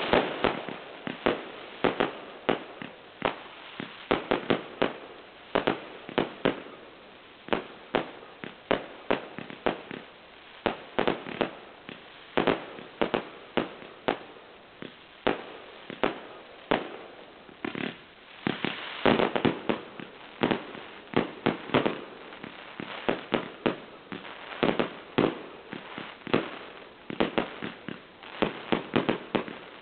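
A multi-calibre firework cake going off: a rapid, uneven run of sharp bangs, several a second, each with an echoing tail, with a denser cluster of reports near the middle.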